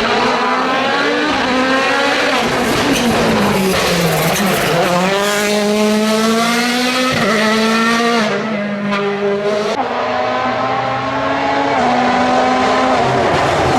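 A World Rally Car's turbocharged four-cylinder engine at full race pace. Its pitch falls as it brakes and shifts down about four seconds in, then climbs in steps through the gears as it accelerates away.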